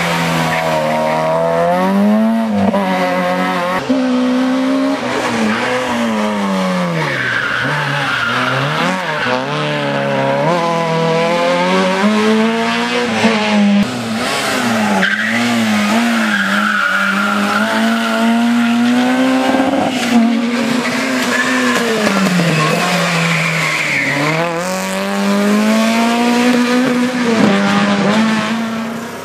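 Rally car engine revving hard and dropping back again and again through gear changes and lifts on a hill climb, with tyres squealing in the corners.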